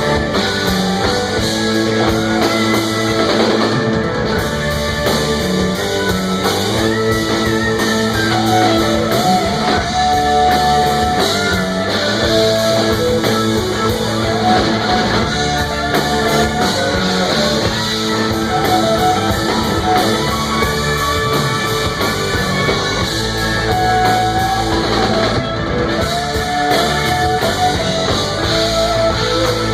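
Rock band playing, with guitar and drum kit, continuously and at a steady loudness.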